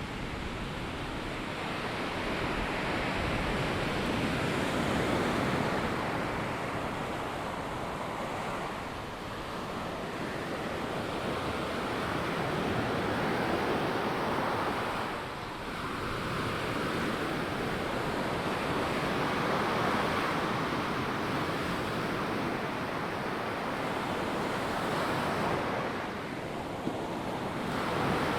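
Ocean surf breaking and washing up on a sandy beach, a steady rush that swells and eases every several seconds.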